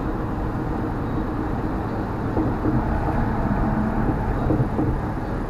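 Steady road and engine noise inside a car moving at highway speed.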